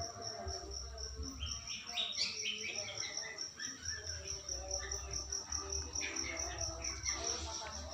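Javan myna making soft chattering calls and short chirps between its talking phrases, with an insect in the background chirping in a steady high pulse about five times a second.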